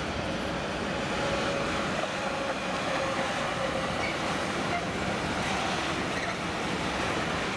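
Electric-hauled freight train of gas tank wagons rolling past close by: a steady rumble of steel wheels on the rails with clickety-clack over rail joints, and a faint thin wheel squeal about two seconds in.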